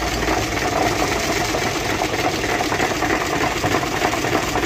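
Hino 500 truck's diesel engine idling with the clutch engaged, with a steady jingling clatter ('chhan chhan') from the clutch that the mechanic places in the clutch, not the gearbox.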